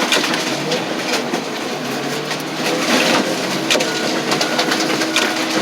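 Loader's diesel engine running with a steady hum, under dense irregular crackling and crunching.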